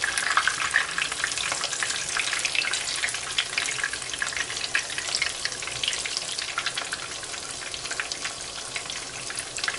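Thin breadcrumbed chicken fillets frying in hot olive oil in a frying pan: a steady sizzle thick with fine crackling pops.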